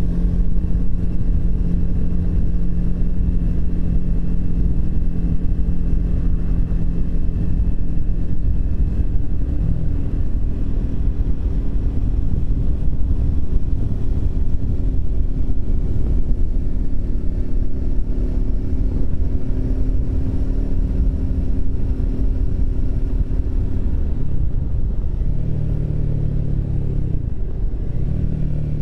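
Triumph Speed 400's single-cylinder engine running at a steady cruise under heavy low wind rumble. Its note shifts up and down several times near the end.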